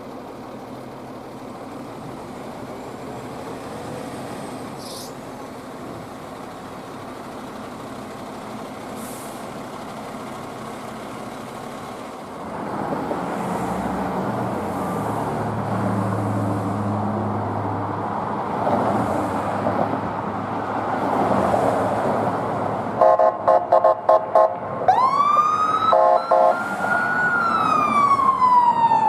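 Road traffic, then a heavy truck engine grows louder about halfway through; near the end, a fire engine gives several short air horn blasts and its siren winds up and falls slowly in a wail.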